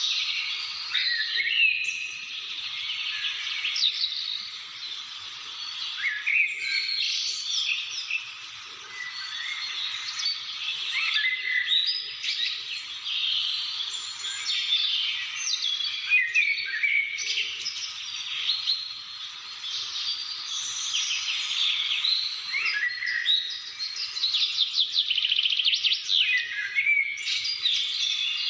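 A chorus of many birds singing and calling over one another without a break: whistles, chirps and pitch glides, with a fast trill near the end.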